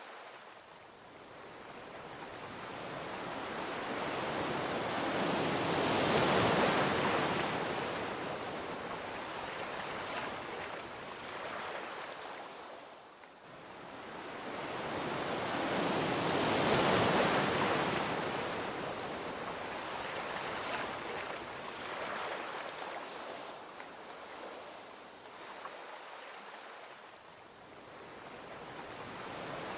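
Gentle ocean waves breaking and washing up a beach: two slow swells of surf, peaking about six and seventeen seconds in, each ebbing away, with a smaller wave building near the end.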